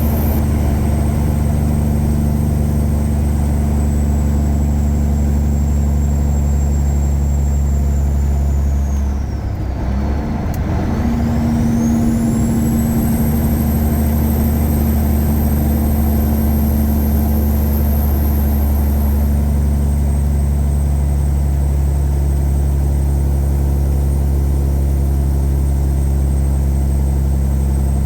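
Tuned Caterpillar 3406E inline-six diesel in a Freightliner Classic truck running steadily under way. About ten seconds in the engine sound dips briefly and a high whine falls in pitch, then climbs back as the engine pulls again.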